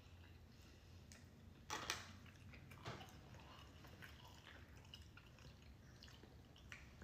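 Near silence: room tone with a low hum, scattered faint clicks and a brief louder rustle about two seconds in.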